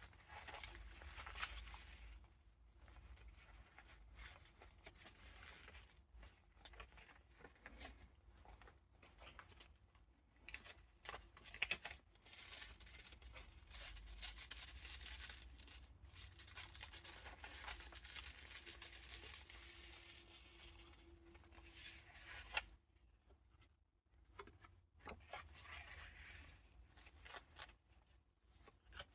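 Paper pages and ephemera of a handmade junk journal being turned and handled: faint rustling and crinkling of paper with soft taps and flaps, and a longer stretch of steady rustling through the middle.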